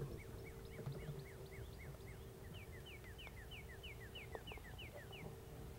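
A songbird singing a run of repeated down-slurred whistled notes, then a faster series of higher paired notes, over a faint steady hum.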